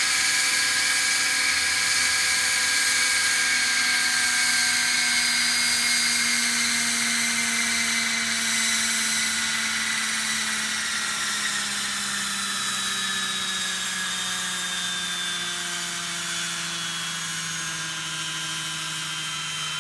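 Roban EC135 scale electric RC helicopter's motor and rotor whining, the whole stack of tones sliding slowly and steadily down in pitch while getting gradually quieter: the rotor head winding down after the flight.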